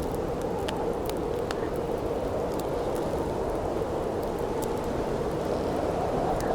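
Steady wind noise with the sharp crackles and pops of a burning wood campfire scattered through it.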